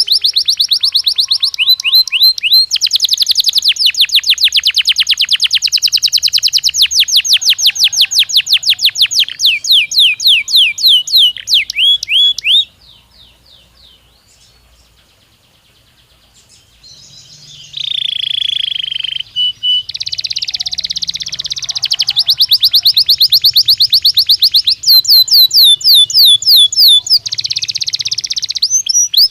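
Belgian canary singing in long, rapid trills of repeated sweeping high notes. About halfway through it pauses for several seconds, then resumes with a lower, buzzy note before breaking into fast trills again.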